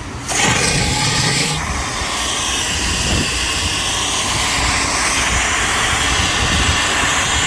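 Car-wash air equipment starting suddenly and running with a steady loud rush of air.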